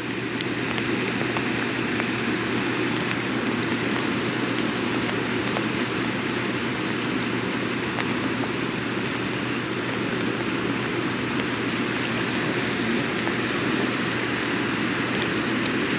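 Steady rush of water through a dam spillway mixed with falling rain, with a low steady hum underneath.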